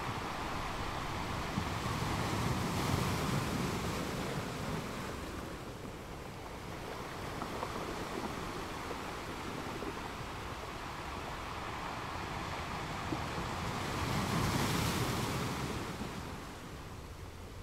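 Ocean waves washing onto a shore, two swells of surf breaking and rising in loudness a few seconds in and again near the end.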